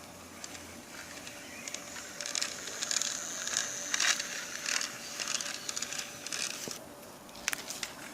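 Toy trains rattling and clicking as they are run along toy track, busiest in the middle, with a few sharp clicks near the end.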